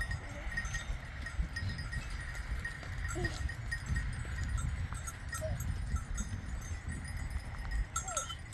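Sheep bleating now and then in short calls, with a steady high pulsing tone and a low rumble in the background.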